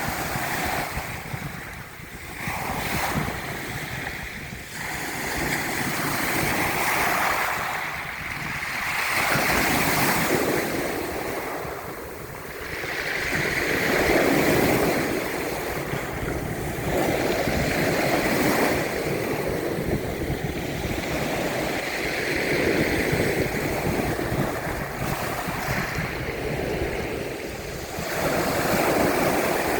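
Sea waves breaking and washing on the shore, an even rushing noise that swells and ebbs every few seconds, with some wind on the microphone.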